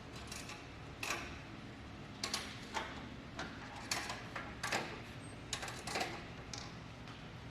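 Irregular sharp clicks and knocks of metal parts being handled on a lathe's tailstock during setup, about a dozen spread unevenly, over a steady low machine hum.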